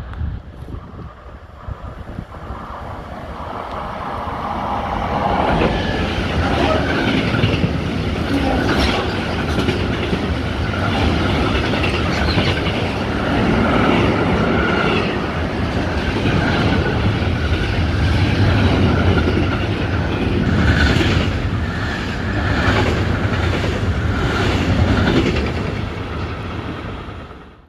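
A freight train of tank wagons passing close by on the near track: a steady rumble with repeated clatter of the wagon wheels over the rail joints. It builds over the first few seconds as the train approaches, stays loud while the wagons roll past, and cuts off suddenly at the end.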